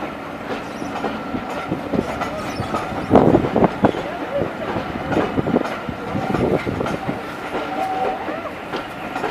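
Railway coaches rolling past, their wheels clacking over the rail joints, with a louder run of clatter about three seconds in.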